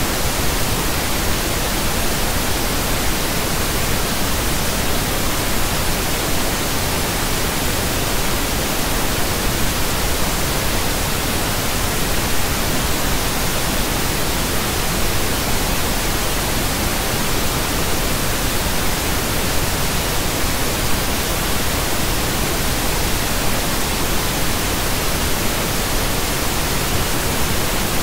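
Steady pink noise: an even, unchanging hiss across the whole range, with no breaks.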